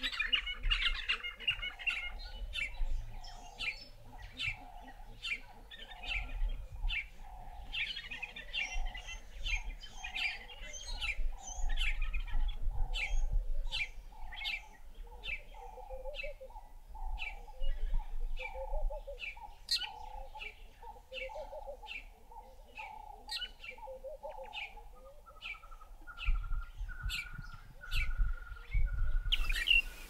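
Birds calling: a steady series of short, sharp, high chirps about twice a second, with a lower call repeated about once a second through most of it, over a low rumble.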